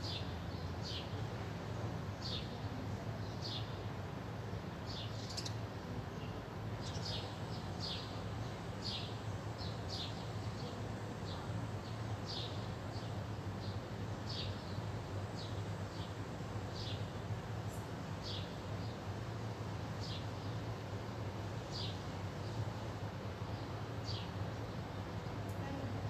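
Small birds chirping, short high chirps about once a second, over a steady low hum.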